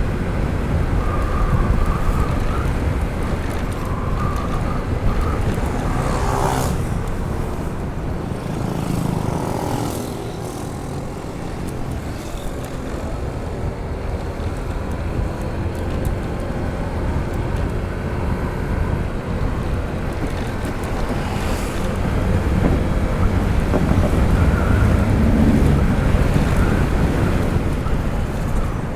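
Honda ADV 160 scooter's small single-cylinder engine running on the move, under steady wind rumble on the microphone.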